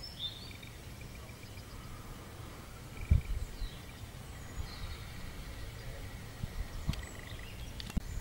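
Faint bird calls over an uneven low rumble on the microphone, with a knock about three seconds in and a few sharp clicks near the end.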